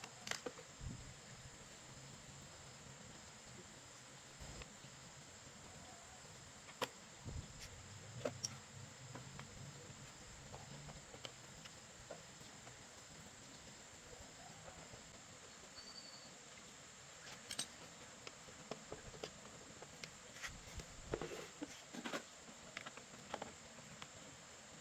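Faint, scattered clicks and light knocks, irregular and a few seconds apart, with a cluster of them in the last few seconds.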